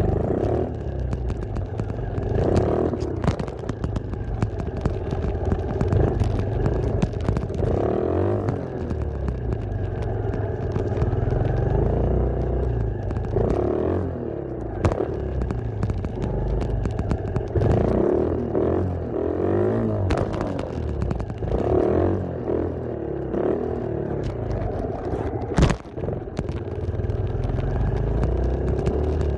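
Dirt bike engine running under a rider, its revs rising and falling again and again as the throttle is worked, over a low rumble, with a sharp knock near the end.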